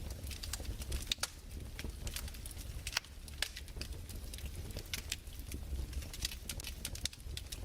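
Fireplace crackling: irregular sharp pops and snaps, several a second, over a steady low rumble.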